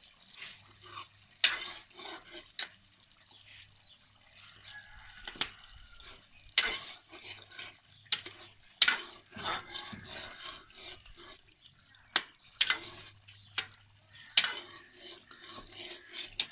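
Spoon scraping and clinking against a karahi as chicken and soft tomato masala are stirred and fried, in irregular strokes about once a second.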